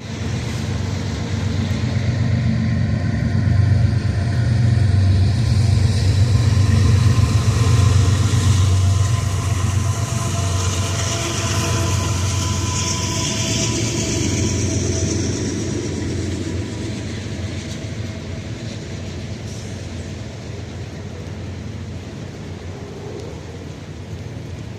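CSX freight train departing a rail yard, its diesel locomotives running with a deep rumble that is loudest in the first several seconds and then slowly fades. A higher hiss rises around the middle while the train keeps rolling.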